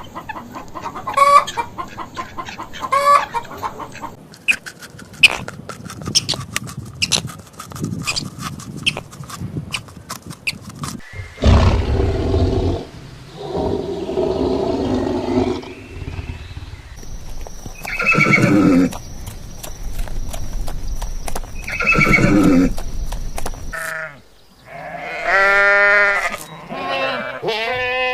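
Farm animals calling in a run of short clips: first a scatter of clicks and short calls, then several long pitched calls, then quick repeated calls near the end.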